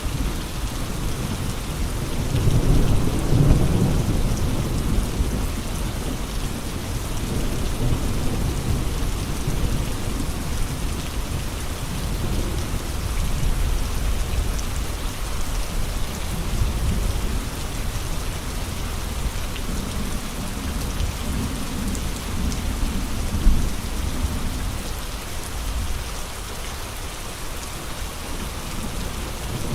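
Steady heavy rain with gusty wind, a deep rumble surging and easing under the hiss of the rain, strongest a few seconds in and settling lower near the end.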